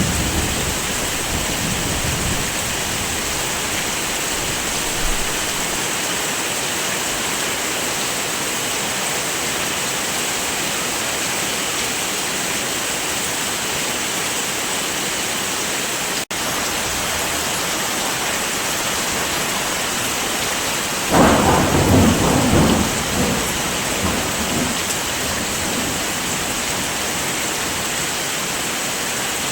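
Steady heavy rain, with a low rumble of thunder fading out in the first couple of seconds and a louder roll of thunder about two thirds of the way through. The sound cuts out for a split second near the middle.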